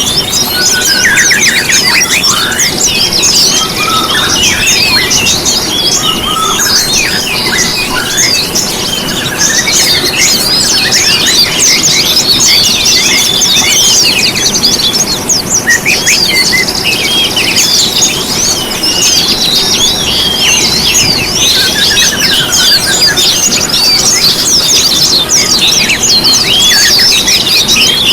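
A dense chorus of many small songbirds chirping and trilling over one another without pause, in a bird-lure recording for caged songbirds. A steady low hiss runs beneath.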